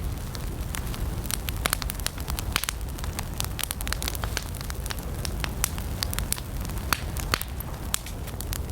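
Wood campfire burning, with dense irregular crackles and pops over a steady low rumble of the flames.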